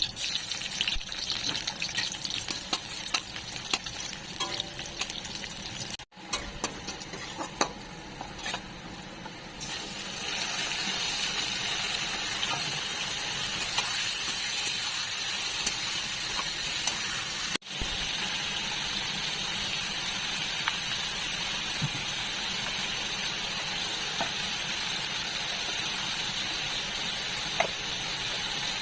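Chicken curry frying in a pan: a crackling sizzle with clicks and scrapes of stirring for the first several seconds, then a steadier, louder sizzle from about ten seconds in.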